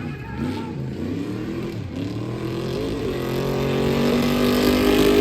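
A vehicle engine revving and accelerating: it rises and falls at first, then climbs steadily in pitch and gets louder, peaking near the end.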